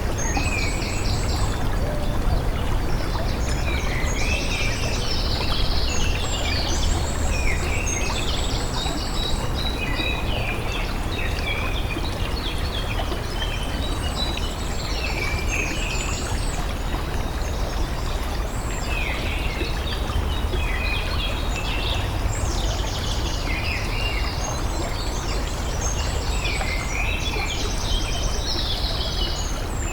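Songbirds calling and trilling almost continuously over a steady rush of running water.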